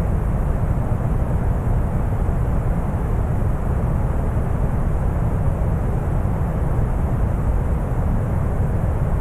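Synthetic deep brown noise: a steady, even rumble weighted toward the low end, with no changes or events.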